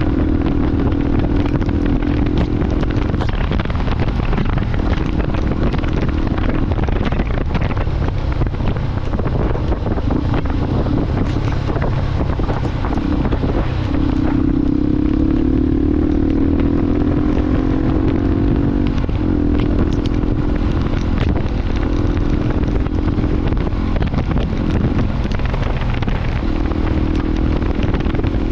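Motorcycle engine running while riding, its note climbing for a few seconds past the middle and then dropping back, with wind noise on the microphone.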